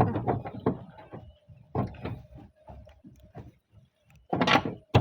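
Roof tiles being shifted and pushed into place: a run of irregular knocks, scrapes and clatters, with a dense cluster of them near the end.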